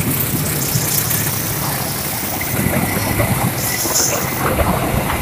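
Passenger train running along the track, a steady noisy rumble with scattered small clicks. There is a short high hiss about four seconds in.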